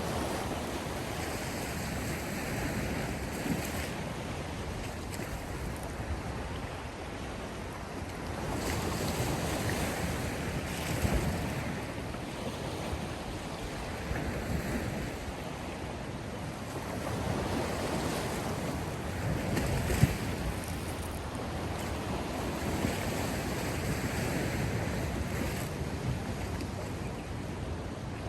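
Sea waves breaking and washing onto the shore, a continuous wash that swells louder about every seven or eight seconds, with wind.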